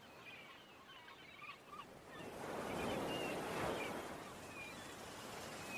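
Ocean waves: a wave swells and washes in about two seconds in, easing off toward the end, with faint short bird calls over it.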